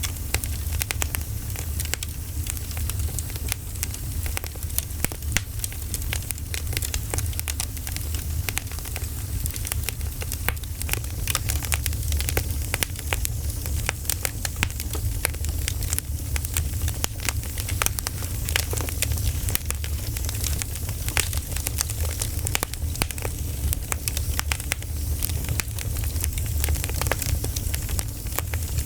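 Wood fire crackling: a steady run of small sharp pops and snaps over a low, even rumble of the flames.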